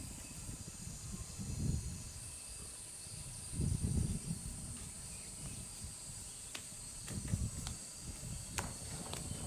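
Outdoor ambience with a steady high-pitched insect drone, broken by low rumbling thuds a few times and a few sharp clicks near the end.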